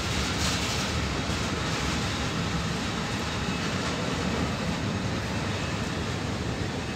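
Intermodal freight train's container flat wagons rolling past close by: a steady rumble and rushing of steel wheels on rail, easing off slowly toward the end.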